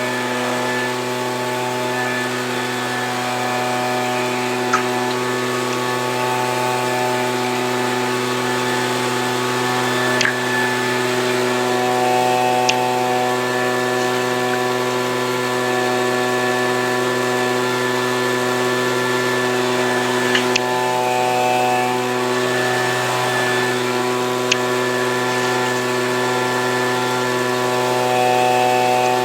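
Gas leaf blower's small engine running at a steady speed, its pitch holding even, with a few faint ticks.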